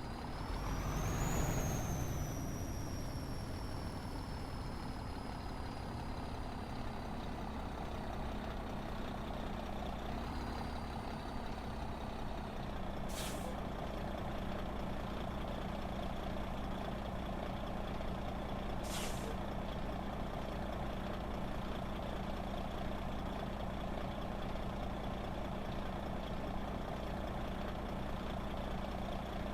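Heavy truck idling steadily, with a high whine that rises about a second in and then slowly falls. Two short hisses of air sound about six seconds apart.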